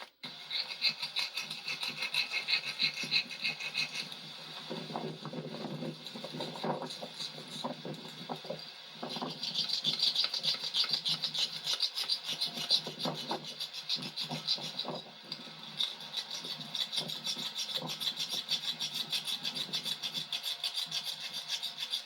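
Fast back-and-forth scraping and rubbing strokes from a hand tool worked over the rubber of a tractor inner tube while a new valve-stem patch is being fitted. The strokes are heavier for a few seconds in the first half.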